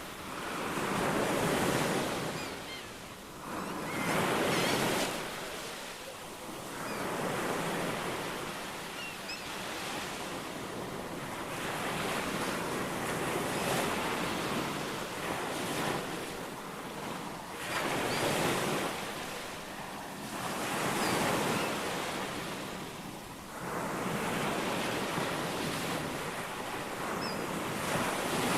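Ocean waves washing onto a shore, the surf swelling and falling back every few seconds, with a few faint, brief high chirps now and then.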